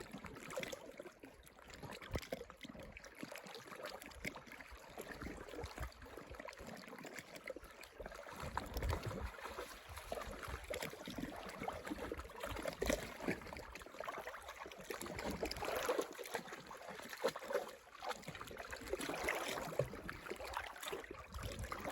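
Gentle water lapping and trickling, with small irregular splashes and knocks.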